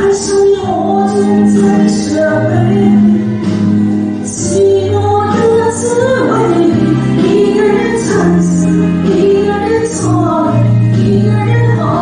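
A woman singing a slow pop ballad live, with band accompaniment of bass, keys and light cymbals.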